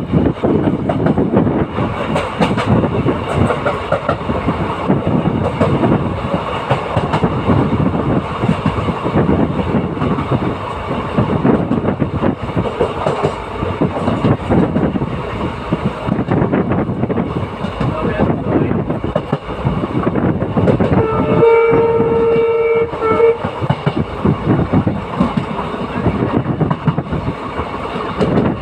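Passenger train running on the rails with a steady rumble of wheels and carriages. The locomotive's horn sounds once, held for about two seconds, about three-quarters of the way through.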